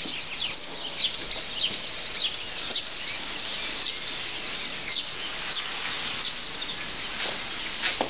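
Small birds chirping, many short high chirps several times a second, over a steady outdoor hiss.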